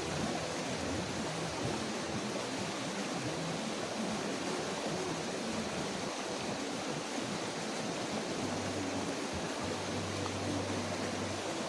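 Steady rush of a creek's running water, an even hiss with no distinct events. A low hum joins about eight and a half seconds in.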